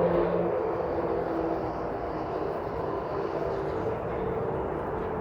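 Motor vehicle traffic on a city street: a steady rush of engine and tyre noise with a faint held hum, loudest at the start.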